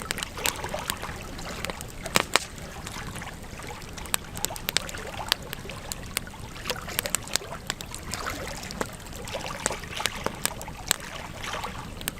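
Wood fire crackling, with frequent irregular sharp pops over a low steady rush; a loud pair of pops about two seconds in.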